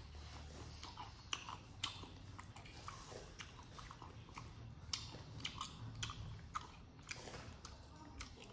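A person biting and chewing crispy fried chicken feet, with irregular sharp crunches a few times a second.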